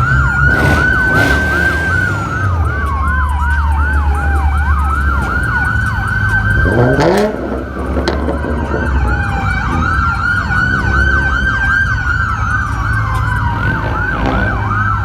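Police car sirens: one in a rapid yelp, about four or five whoops a second, overlapping another in a slow wail that rises and falls over several seconds, over a car engine's low rumble. A sharp knock sounds about seven seconds in.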